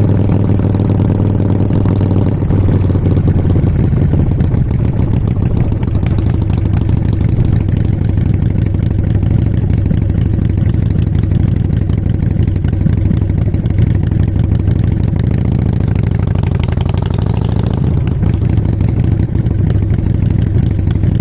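Motorcycle engine running steadily under way, a low pulsing note that holds nearly constant pitch, shifting slightly near the end.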